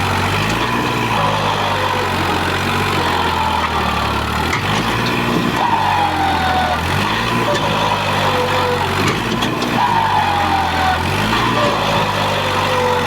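Tractor diesel engine running hard under load, probably in a tractor tug-of-war. Its speed rises and sags again about every four seconds, with a whine that falls in pitch each time.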